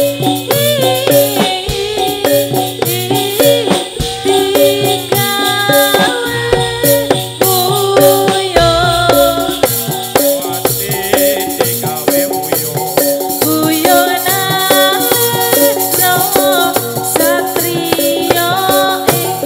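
Live Javanese gedruk / topeng ireng dance accompaniment: melodic instruments play a busy stepping tune over constant rattling, jingling percussion and drums.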